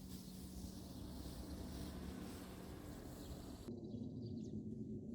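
Outdoor ambience: a steady hiss over a low hum, which changes abruptly a little past halfway to quieter air with a few faint, short bird chirps.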